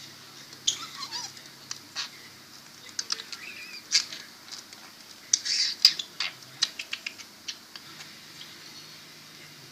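Pet budgerigar chattering: a quick run of short chirps, clicks and squeaks with one falling whistle about a second in, busiest in the middle and thinning out near the end.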